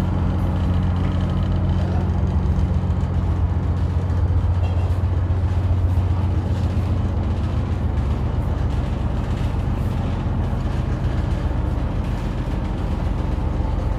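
Houseboat engine running steadily, a continuous low drone with no change in speed.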